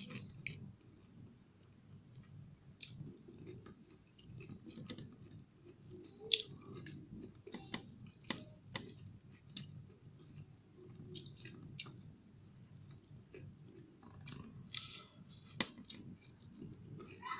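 A person chewing and eating fried fish close to the microphone, with many short, sharp mouth clicks scattered through the chewing; the loudest comes about a third of the way in.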